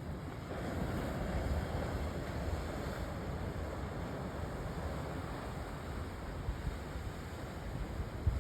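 Sea waves washing onto the shore, with a wave surging in about half a second in and slowly easing off. Wind buffets the microphone throughout.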